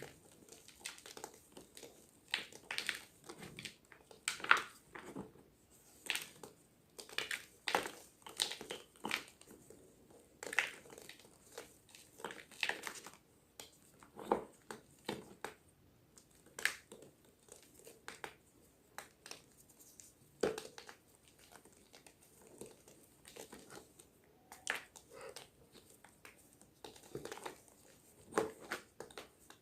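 Gym chalk crunching in irregular, sharp crunches, several a second with short pauses between.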